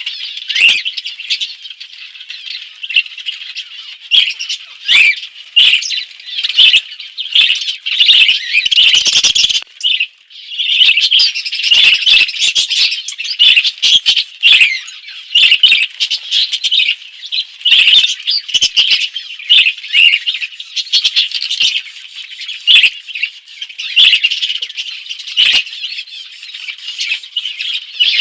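A flock of budgerigars chattering continuously, with many sharp clicks mixed in. The chatter dips out briefly about ten seconds in.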